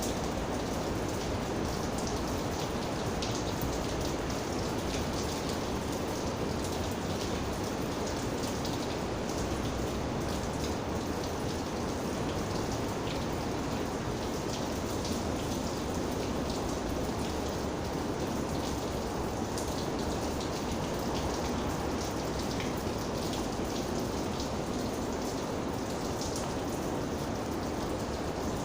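Steady rain falling, a dense even hiss with many individual drops ticking close by.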